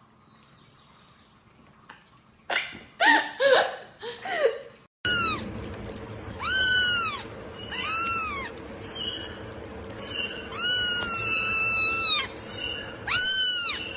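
A cat meowing again and again: a few short calls, then a run of high meows that rise and fall in pitch, one held for nearly two seconds, over a steady background hum.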